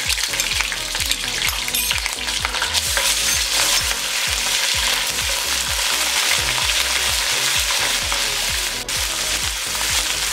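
Ginger-garlic paste and browned onion slices sizzling steadily in hot oil in a wok, stirred continuously with a silicone spatula. The paste is being fried off to cook out its raw taste.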